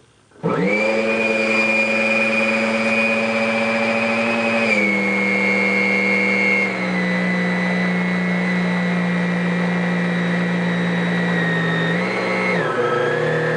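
1995 Dirt Devil upright vacuum cleaner's 12-amp motor starts abruptly about half a second in and runs loud with a high whine, its pitch stepping down a couple of times and wavering near the end. The motor is burnt out and smoking.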